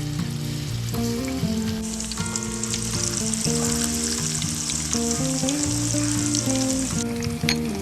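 Chicken frying in hot oil: a steady sizzle that gets louder about two seconds in and drops back near the end, over background music.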